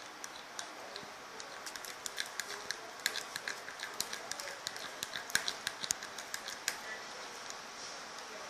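Slime mixture being stirred and beaten in a container: a run of irregular sticky clicks and taps, several a second, busiest in the middle.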